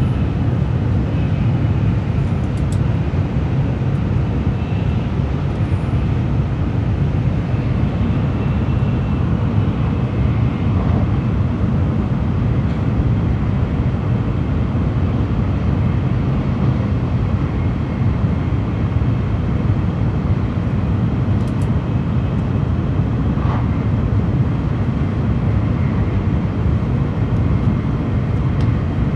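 Steady low rumble and hiss inside the passenger cabin of an N700A Shinkansen running at about 283 km/h.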